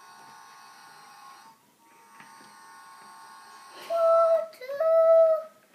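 Electronic sounds from a toy train set: a quieter steady electronic tone, then two loud held whistle toots near the end.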